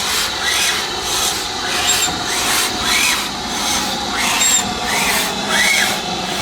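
Steam locomotive working, with a rhythmic rasping beat roughly twice a second and short squeals that rise and fall in pitch.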